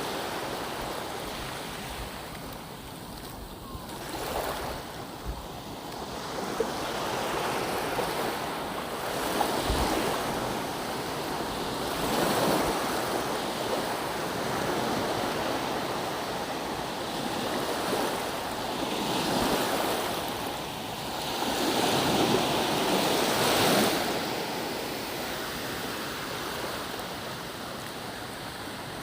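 Ocean surf washing onto the shore, swelling and fading every few seconds. A few low gusts of wind hit the microphone.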